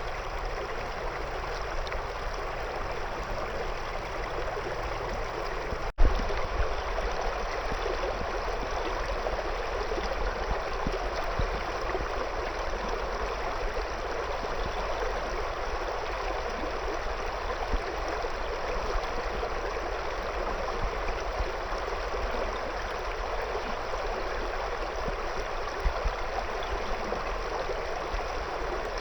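Shallow river flowing over stones, a steady babbling rush of water. About six seconds in, the sound cuts out for an instant and comes back with a sharp click.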